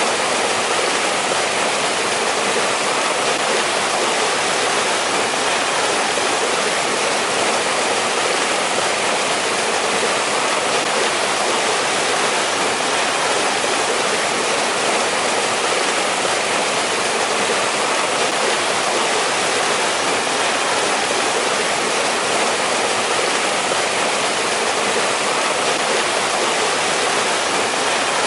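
Mountain stream rushing steadily over rocks, a continuous even splashing and rushing of water with no breaks or separate events.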